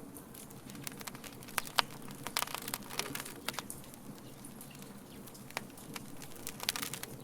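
Wood fire crackling: irregular sharp pops and snaps from burning wood over a steady low rustle of flame. The pops come thickest in the first half and again near the end.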